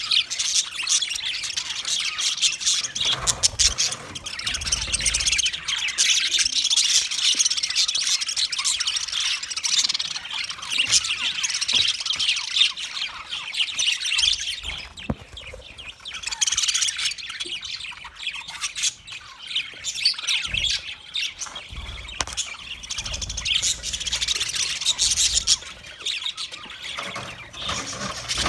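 Several budgerigars chirping and chattering continuously, many rapid overlapping calls at once.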